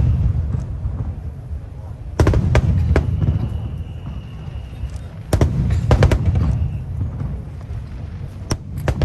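Aerial fireworks shells bursting: two volleys, each a deep boom followed by several sharp cracks, about three seconds apart, then a few more cracks near the end.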